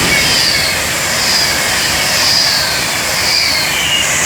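Class 390 Pendolino electric train passing at speed with a loud steady rush and a high falling squeal about once a second. The train is throwing up dust and leaving a strong burning smell, and the spotter thinks it must be on fire.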